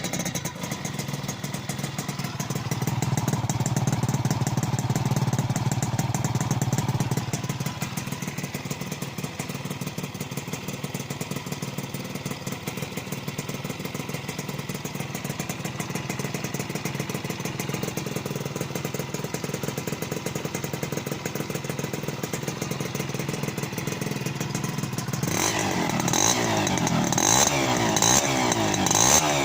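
1980 Honda M100 motorcycle engine idling steadily, rising a little for a few seconds early on. Near the end the throttle is blipped several times, the engine note rising and falling.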